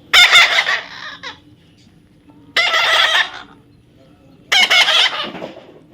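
Parrot giving three loud, harsh squawks about two seconds apart, each lasting roughly a second.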